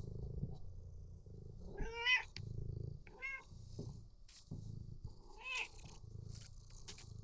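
Domestic cat purring in slow swells, breaking off for three short meows, about two, three and five and a half seconds in; the first meow is the loudest.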